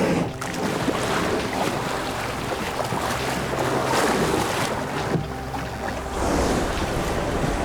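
Open-sea ambience: waves washing and wind rushing, with the noise swelling and easing several times.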